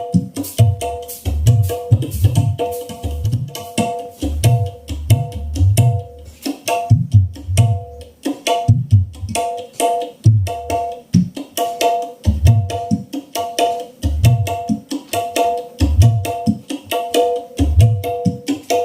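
Music with busy hand-drum percussion and deep drum hits, played back through a homemade 15-inch vocal monitor speaker with a tweeter.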